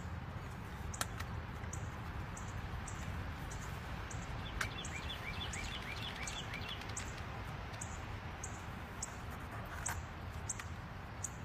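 Outdoor background with birds chirping: a short high chirp repeats about twice a second, with a quick run of chirps about five seconds in. A few light clicks of a plastic CD jewel case being handled sound over it.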